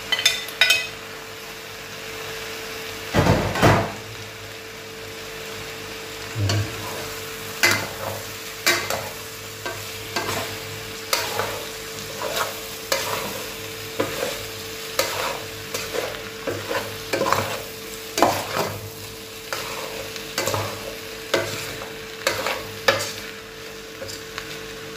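Beef tripe and meat sizzling in hot oil with onion, garlic and ginger as a metal spoon stirs them, scraping and knocking against the pot about once a second, with a louder knock about three seconds in. A steady faint hum runs underneath.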